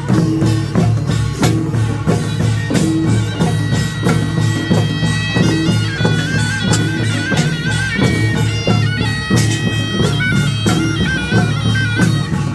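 Korean nongak farmers' band music: a taepyeongso shawm plays a loud, nasal, stepping melody over a steady rhythmic beat of drums and percussion.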